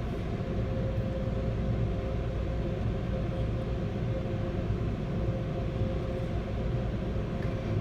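Automatic car wash dryer blowers running: a steady blowing noise with a low rumble and a constant hum.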